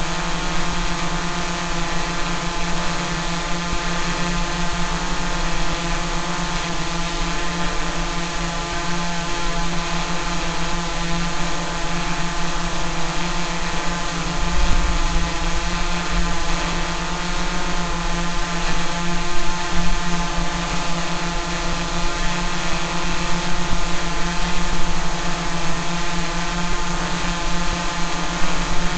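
Drone's propellers and motors buzzing steadily at a constant pitch, hovering without climbing or diving.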